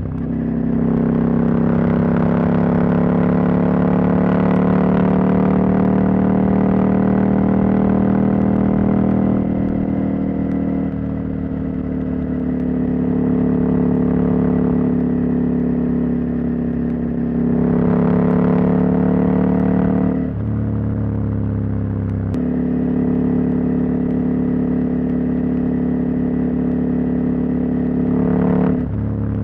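Husqvarna Norden 901's parallel-twin engine, its catalytic converter removed, running under way at road speed. The engine note holds steady for stretches, with the revs rising and falling a few times and sudden pitch steps from gear changes or throttle changes.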